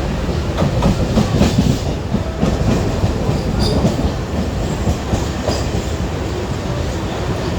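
Mumbai local electric suburban train running: a steady rumble with wheels clicking and clattering over rail joints, busiest in the first two seconds, and a couple of brief high wheel squeals in the middle.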